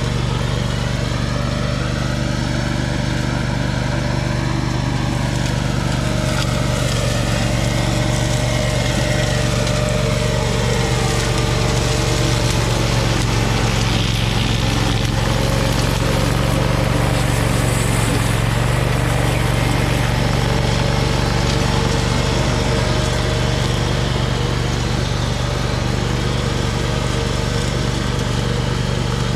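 Tractor engine running steadily under load, driving a flail mower.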